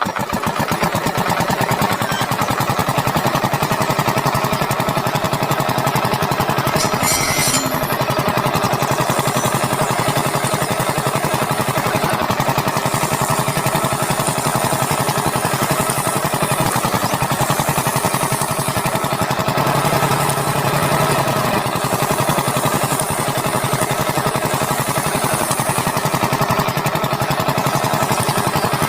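Small engine running steadily at a fast, even firing rhythm, just after being started.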